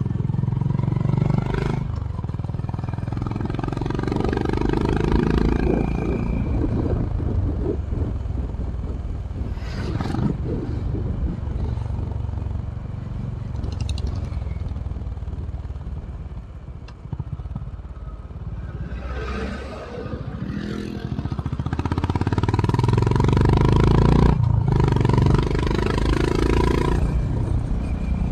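Honda H'ness CB350's single-cylinder engine through its stock exhaust, heard onboard while riding, with wind noise. The engine eases off around the middle, then pulls harder and is loudest in the last third, with a few short breaks in between.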